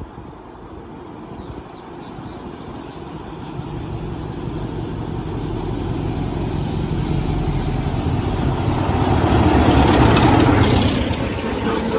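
Train approaching and passing, a low engine and wheel rumble that swells steadily to its loudest about ten seconds in, then begins to fall away.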